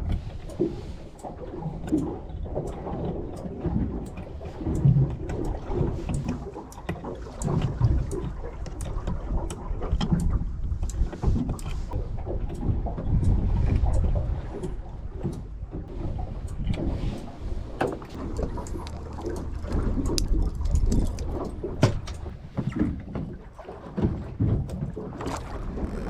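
Small fishing boat on the sea: uneven low rumble of water and wind against the hull and microphone, with many scattered light clicks and knocks.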